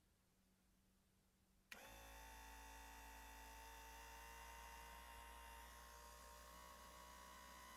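Mercury inline outboard's power trim pump: a click about two seconds in as its electric motor switches on, then a steady hum as it runs.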